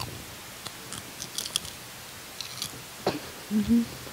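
Faint, scattered crisp crackles of popcorn being chewed close to the microphones, then a brief wordless vocal sound near the end.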